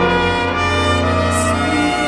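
Trumpet playing held notes over a sustained low accompaniment, in a continuous passage of music.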